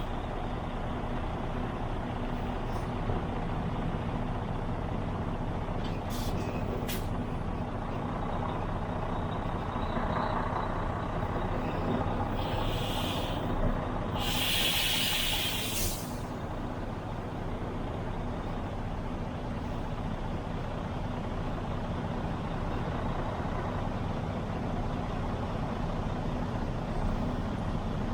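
Diesel truck engine running steadily, with two hisses of released air from the air brakes about halfway through, the second longer and louder.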